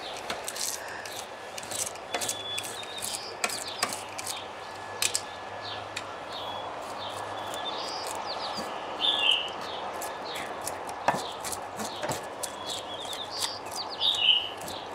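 Bird calls: short high chirps in a few clusters, the loudest about nine and fourteen seconds in, over a steady hiss with scattered small clicks and knocks.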